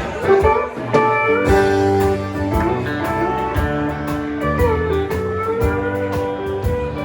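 Live country band playing a song's instrumental intro: guitars over a steady drum beat, with a lead line that slides between notes.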